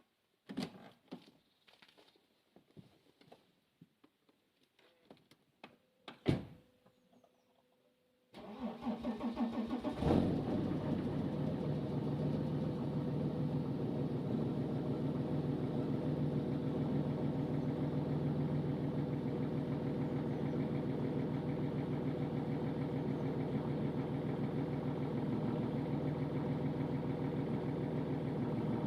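A few clicks and knocks, one sharp, then a Mercedes OM648 3.2-litre inline-six diesel is cranked by the starter for under two seconds in a cold start at −10 °C. It catches about ten seconds in with a brief flare, then settles to a steady idle.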